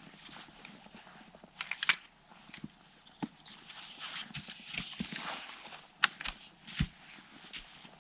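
Footsteps crunching in snow: irregular crunches, with a couple of sharper clicks, about two seconds in and again about six seconds in.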